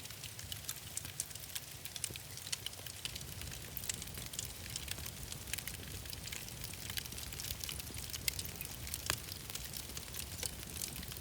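Wood fire crackling in a fireplace: a dense stream of small, sharp pops over a steady low rumble of the flames, with a couple of louder pops near the end.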